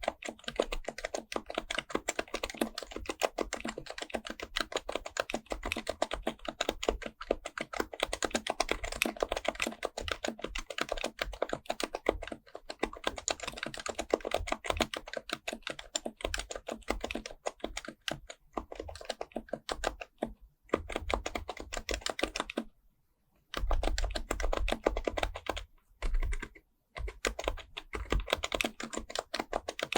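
Fast, continuous typing on an HHKB Professional Type-S keyboard, its silenced Topre capacitive keys clacking in quick runs, with a few brief pauses in the last third.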